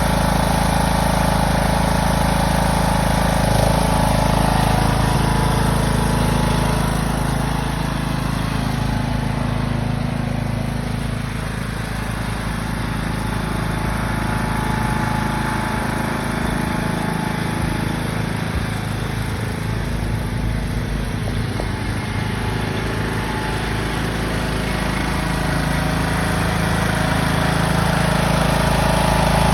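Tractor engine running steadily, close to the microphone; it eases a little in the middle and picks up again near the end.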